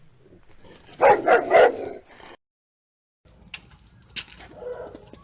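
Dog barking: three quick, loud barks about a second in, trailing off into a fainter one.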